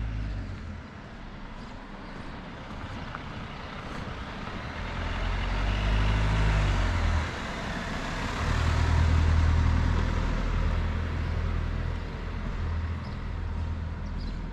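A road vehicle passing, its engine and tyre noise swelling to a peak mid-way and then fading, over a steady low rumble.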